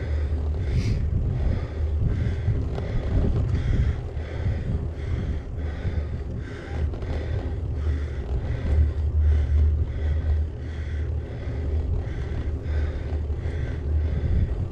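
Wind buffeting the microphone of a GoPro Hero8 on a moving bicycle: a steady low rumble, with a fainter higher pulsing about twice a second.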